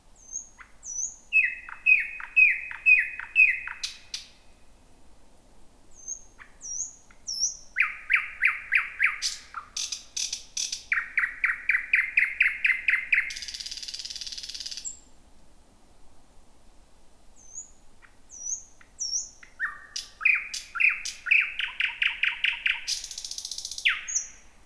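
Thrush nightingale singing at night: three loud song phrases of fast repeated notes, about five a second, mixed with sharp high whistles. The second phrase ends in a dry, harsh rattle lasting over a second, and the last phrase closes with a shorter one.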